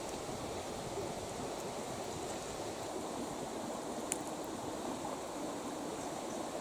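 Steady rushing noise with one short, sharp crack about four seconds in.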